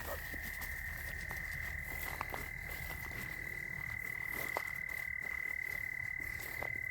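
A frog's steady, unbroken high trill, held without a break, with a few faint ticks under it.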